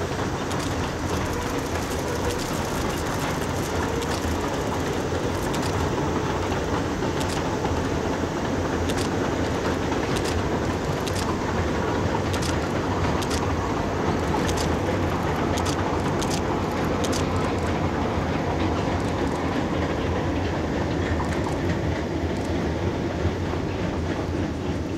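Steam train running across a steel girder bridge: a steady rumble, with a run of light clicks from the wheels over the rail joints through the middle of it.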